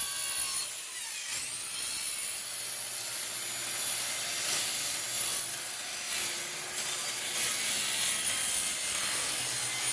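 Power saw making one long, steady cut, with a brief dip in pitch about a second in, as the blade loads up.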